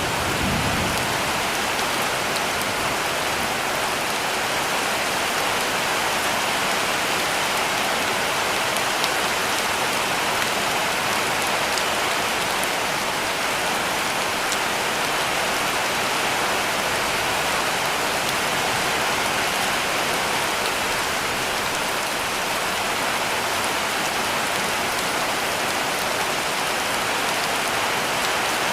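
Heavy rain falling steadily on a cabin roof, an even, unbroken hiss of drops, with a brief low rumble just after the start.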